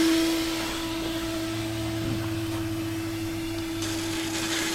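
Air rushing out of a Jeep Wrangler's 37-inch tire as it is aired down through the valve, a steady hiss with a constant humming tone. It eases slightly about half a second in.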